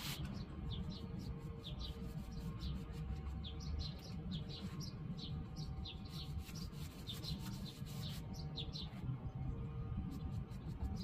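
Small birds chirping: repeated short, falling chirps, often in quick pairs, over a steady low background rumble.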